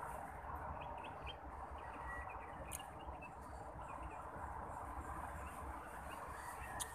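A few short, faint bird chirps over steady outdoor ambience, with two sharp clicks, one partway through and one near the end.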